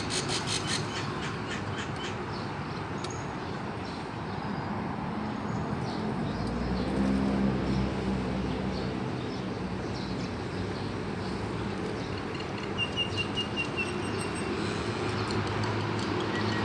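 Wild birds calling over steady outdoor background noise, with a quick run of about half a dozen short high chirps near the end. A low hum swells and fades in the middle.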